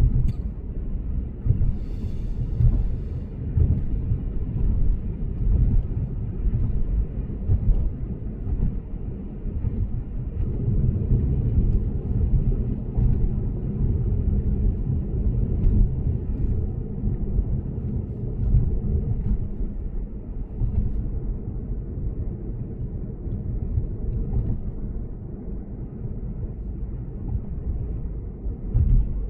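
Lexus GS450h travelling at expressway speed, heard as a steady low road-and-tyre rumble inside the car, swelling and easing slightly with the road surface.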